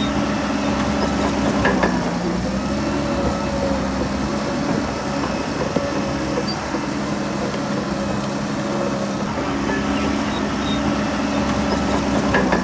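Heavy diesel engine of earthmoving machinery running steadily, its pitch dipping briefly about two seconds in and again near the end as the load changes.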